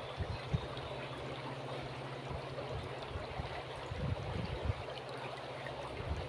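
River water flowing steadily with a soft rushing sound. Wind buffets the microphone with low rumbles, about half a second in and again around four seconds.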